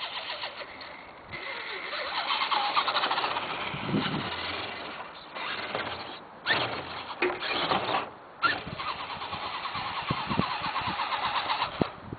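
Small nitro RC engine running with a fast pulsing beat, cutting out briefly several times and picking back up in sudden surges.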